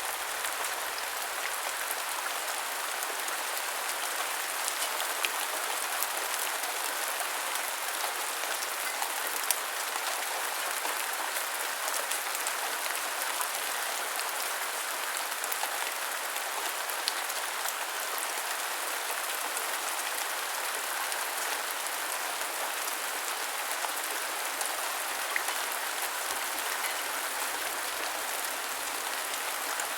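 Steady heavy rain falling, an even hiss with scattered individual drop ticks.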